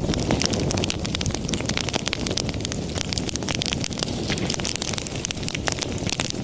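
Wood fire burning in a fireplace: a steady low rumble of flames with a constant stream of sharp crackles and pops.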